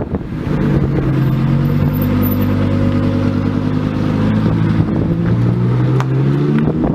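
Lamborghini Huracán Performante's 5.2-litre naturally aspirated V10 running at low, steady revs, its pitch drifting slightly up and down.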